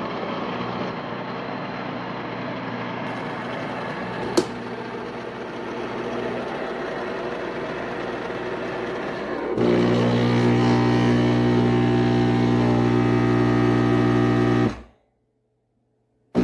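Single-serve drip coffee maker running through a brew cycle: a rough, steady whirring with a sharp click about four seconds in, then from about ten seconds in a louder steady buzzing hum. The sound cuts off abruptly near the end.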